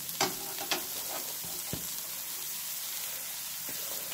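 Onions and jackfruit seeds sizzling steadily in a stainless steel sauté pan as chopped amaranth leaves are tipped in on top. A few sharp clicks in the first second, and a soft knock near the middle.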